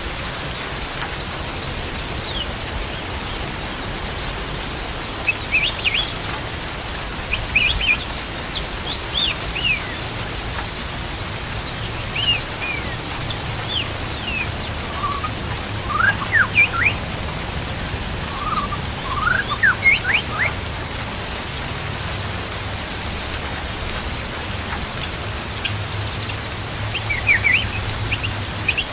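Birds chirping in short scattered bursts of quick rising and falling notes over a steady hiss, with a faint, steady high-pitched whine.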